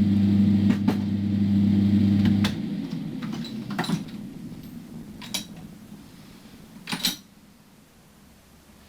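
Arc welder's transformer humming steadily, then cutting off about two and a half seconds in, followed by a few sharp metallic clicks and knocks as the sound dies away.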